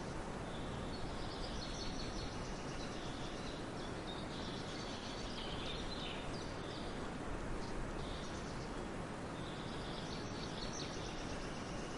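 A bird singing in woodland: short phrases of high chirping notes, repeated every couple of seconds, over a steady background noise.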